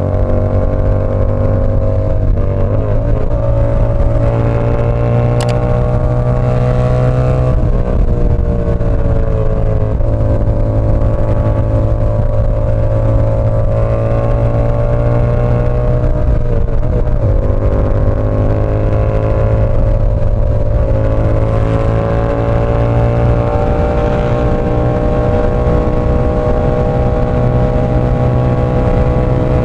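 Yamaha R7's 689 cc parallel-twin engine running through an SC Project CR-T exhaust while riding, a steady loud engine note. The pitch dips and climbs again three times, and there is one sharp click about five seconds in.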